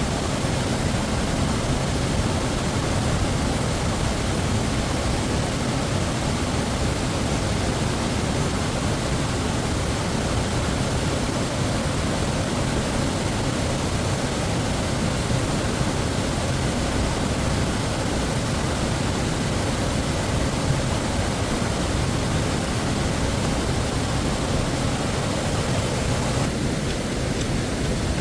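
Waterfall rushing, a steady even noise of falling water, its higher hiss dipping slightly near the end.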